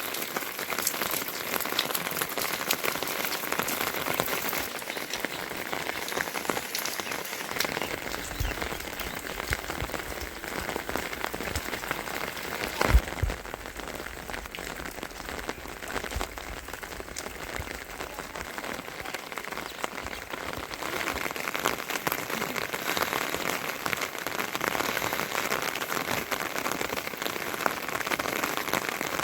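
Heavy rain falling steadily, a dense patter of drops. There is a single low thump about halfway through.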